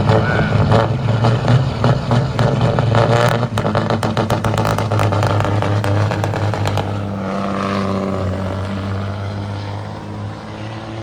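Semi-truck diesel engine running hard with rapid firing pulses, then backing off about seven seconds in and settling to a steadier, lower note.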